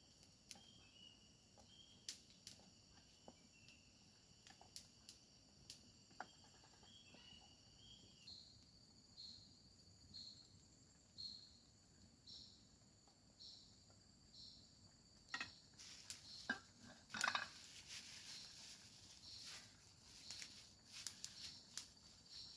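Faint chorus of forest insects, crickets among them: a steady high buzz with short chirps repeating about once a second. Scattered sharp clicks and crackles throughout, thicker and louder in the second half.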